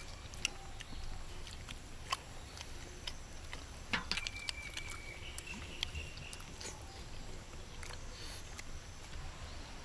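People eating steamed chicken momos by hand: soft chewing and mouth smacks with scattered small clicks, over a low steady outdoor rumble.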